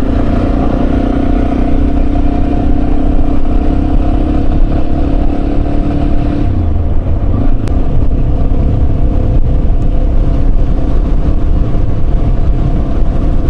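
Yamaha Serow 250 single-cylinder engine running steadily on the road, under a heavy low rumble of wind on the microphone; the engine note drops slightly about six and a half seconds in.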